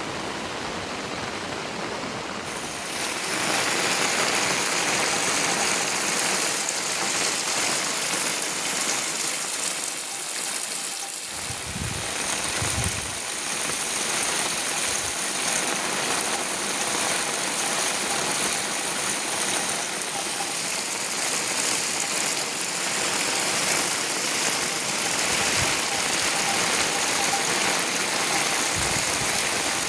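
Heavy rain falling steadily, a dense even hiss that grows louder about three seconds in, with a few dull low thumps along the way.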